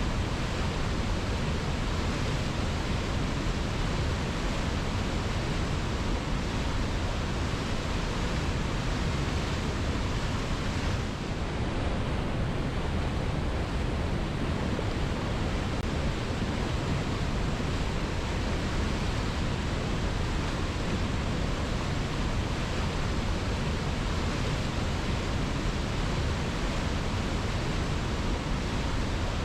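Waterfall cascading over rocks: a steady, dense rush of falling water that dips briefly about eleven seconds in.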